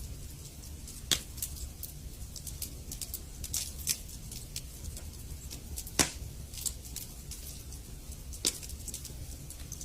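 Wood fire in a fireplace crackling: irregular sharp pops and snaps over a steady low rumble of the flames, with the loudest pops about a second in, about six seconds in and near the end.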